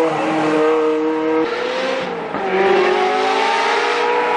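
Engine of a modified vehicle running and revving, its pitch holding, then dipping and rising again.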